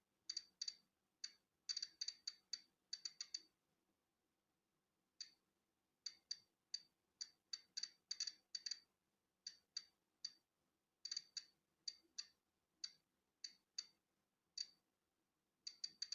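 Polon EKO-C digital Geiger counter clicking at random intervals as it counts natural background radiation. The sharp, high clicks come irregularly, sometimes in quick clusters, with a pause of nearly two seconds about three and a half seconds in.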